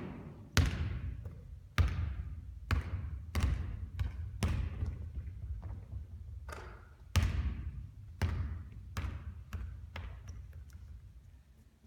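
Basketball bouncing on a hard court: about a dozen irregularly spaced bounces, each with an echoing tail, getting fainter near the end.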